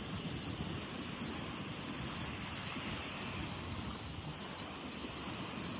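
Steady wind noise on the microphone over the wash of small waves on a lake shore.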